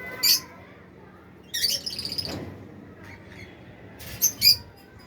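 Budgerigar squawking in short, harsh, high-pitched calls: one sharp call right at the start, a longer chattering burst after about a second and a half, and two quick calls near the end.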